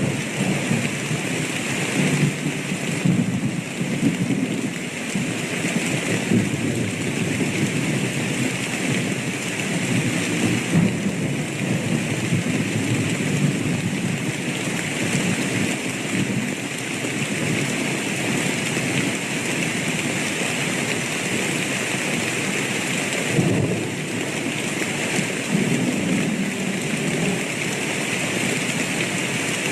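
A thunderstorm: steady rain pouring, with thunder rumbling low underneath that swells and fades several times.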